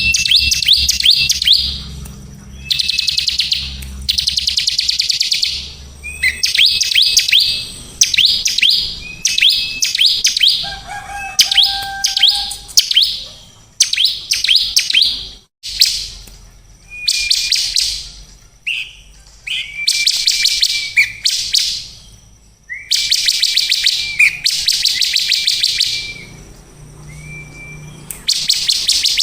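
A small songbird repeating high, rapid trills about a second long, many opening with a short whistled note. There is a lower whistle about eleven seconds in and a brief break about fifteen seconds in.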